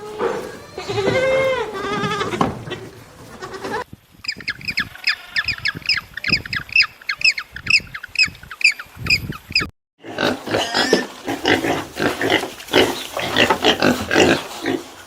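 Animal calls in three clips cut one after another: first a few drawn-out pitched calls, then a run of short high chirps about three a second, then a dense stretch of rapid calls.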